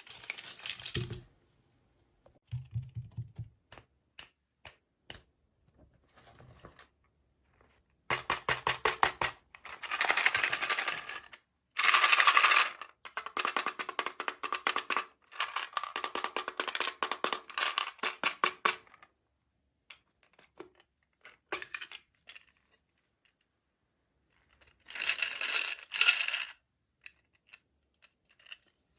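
Small plastic toy pieces and packaging being handled during an unboxing: spells of rapid clicking and rattling, the longest about midway, separated by short pauses.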